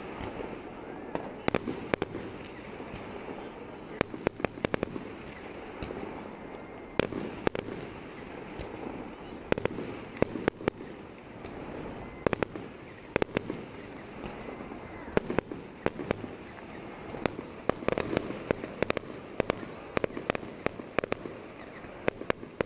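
Fireworks going off: irregular sharp bangs and cracks, often several in quick succession, over steady background noise.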